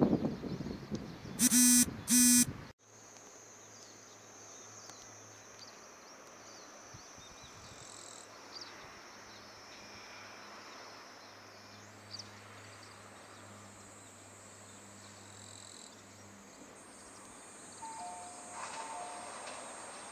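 Two short, very loud pitched blasts about half a second apart near the start, then a sudden cut to a steady faint outdoor background with high, steady insect-like tones. Near the end the sound of an approaching limited express train begins to rise.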